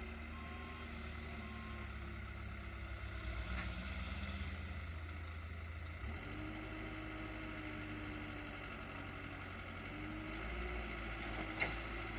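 Truck engine running steadily at low revs, with a single sharp click near the end.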